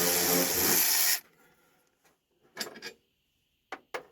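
A loud motor running with a strong hiss, cutting off about a second in. It is followed by a few light clicks and scrapes of handling.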